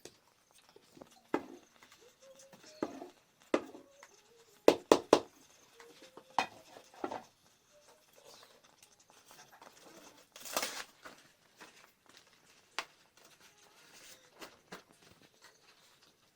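Scattered knocks and clatter of cooking pots and utensils being handled, with three sharp knocks in quick succession about five seconds in. A short rustle of leaves a little after the middle, as fresh banana leaves are handled for wrapping the couscous.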